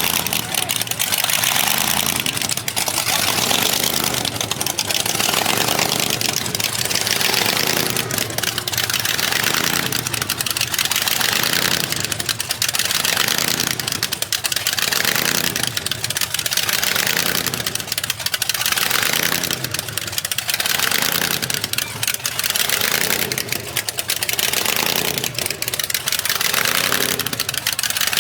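A vehicle engine running loudly and steadily.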